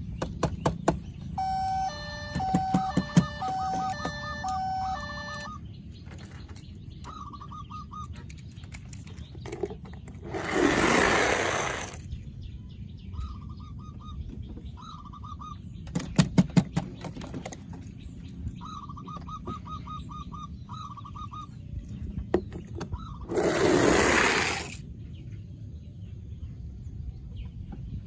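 Electronic sound effects from battery-powered toy vehicles: a short beeping melody, then several brief bursts of rapid pulsed beeps. There are also clusters of sharp clicks and two hissing bursts of about two seconds each, one near the middle and one near the end, the loudest sounds present.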